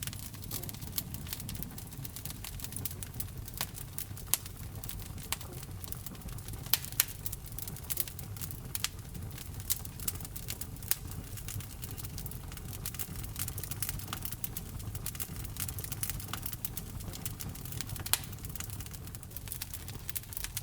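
Wood fire burning in a fireplace: irregular sharp crackles and pops over a low steady rumble of the flames, with a few louder pops about 4, 7 and 18 seconds in.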